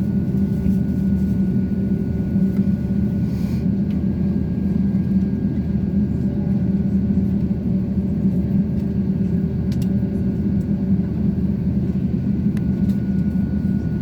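Steady cabin rumble of an Airbus A350-900 with its Rolls-Royce Trent XWB engines running, heard from inside the passenger cabin, with a thin steady whine above the low drone.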